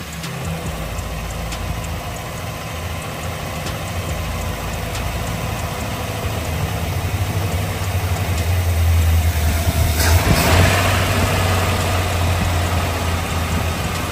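Car engine with a two-barrel carburetor idling while its carburetor is adjusted by hand, the running picking up and getting louder for a couple of seconds about two-thirds of the way through. It is a hard-starting engine with a new carburetor being tuned so that it runs better.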